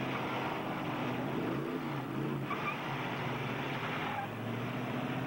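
Engines of several four-cylinder demolition derby cars running and revving together in a steady din, with one engine's pitch rising and falling about a second and a half in.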